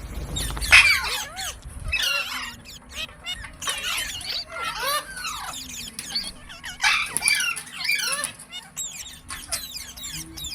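Parrot chattering and squawking: a quick run of short, sliding high calls, with a low rumble under the first two seconds.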